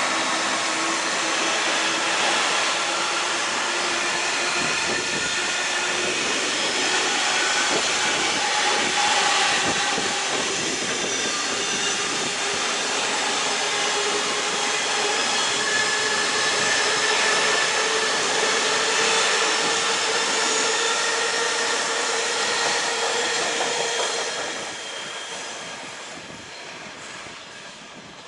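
A train running past on the rails: a loud, steady rumble and rush of wheels with several drawn-out whining tones over it. It fades away near the end as the train moves off.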